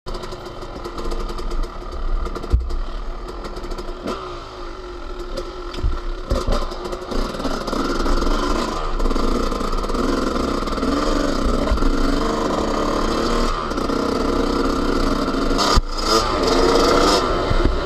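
Yamaha YZ250 two-stroke motocross engine running under riding load, its revs rising and falling, with a few sharp knocks in between.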